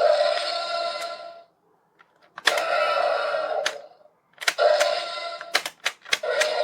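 Mattel Jurassic World Tyrannosaurus Rex toy triggered by its button: roar sounds from its small built-in speaker come in four bursts of about a second each. Sharp clicks from the motorized jaw chomping and head moving come between and within the bursts, most of them in the second half.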